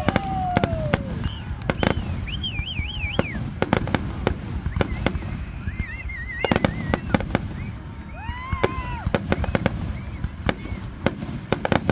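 Aerial fireworks display: many sharp bangs and crackling reports, some in quick clusters, with several rising-and-falling whistles among them.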